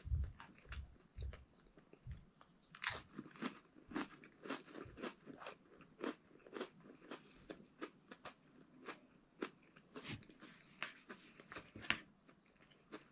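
Close-up chewing of an MRE cracker with beef stew: a string of irregular crisp crunches, several a second.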